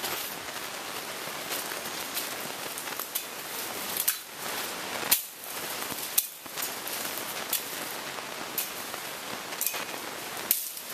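A steady, even hiss with sharp clicks or taps about once a second.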